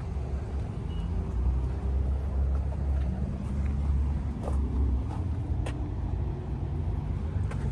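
Car engine idling: a steady low rumble with a few faint clicks.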